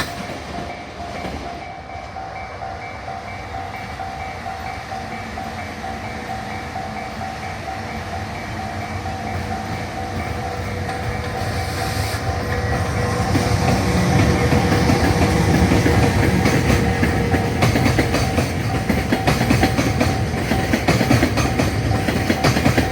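Train passing a level crossing, its wheels clattering over the rail joints and growing louder about halfway through as it draws close. A level-crossing warning bell rings steadily throughout.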